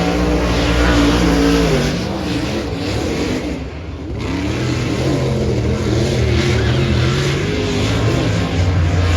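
Dirt-track modified race car engine at speed, its pitch rising and falling as the throttle is worked through the corners, with a brief lift off about four seconds in before it picks up again.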